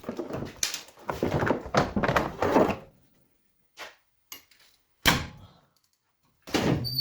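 Clunks and knocks of metal parts and tools being handled while an engine is removed: a dense run of clatter, then silent gaps and a single sharp knock about five seconds in that rings away briefly.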